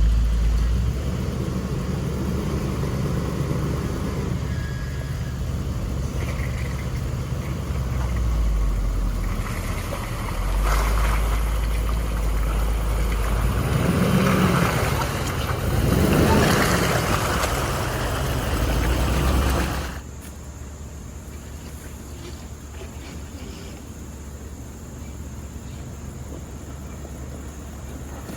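Vehicle engine driving slowly over rough ground, revving up and back down twice in quick succession midway through. About twenty seconds in, the engine sound drops away suddenly, leaving a quieter steady hum.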